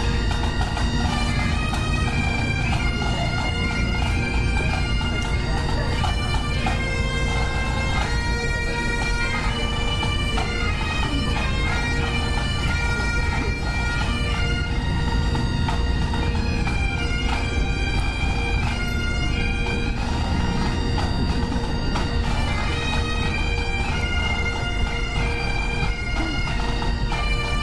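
Pipe band's Highland bagpipes playing a tune, the melody stepping between held notes over the steady drone.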